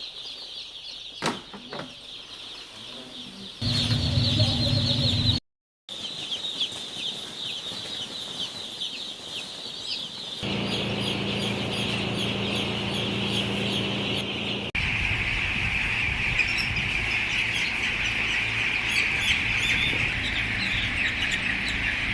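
Many young chicks cheeping at once, a dense, steady high chatter. A steady low hum sounds under it in some stretches, and the sound drops out for a moment about five seconds in.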